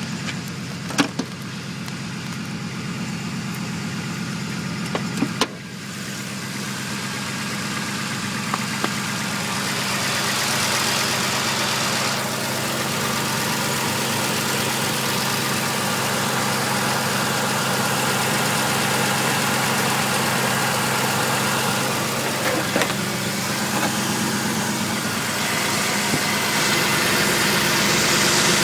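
Car engine idling steadily, filmed for an unidentified whistle that is still there with new alternator, idler and tensioner pulleys fitted. A few sharp clicks come in the first few seconds.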